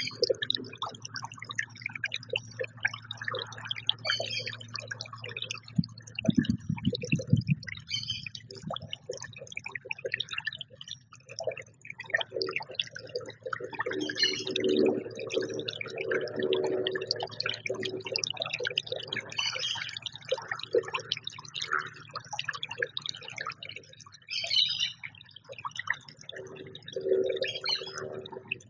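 Small songbirds at a feeder chirping and calling in many short, quick notes, with a steady low hum beneath and a brief low rumble about six seconds in.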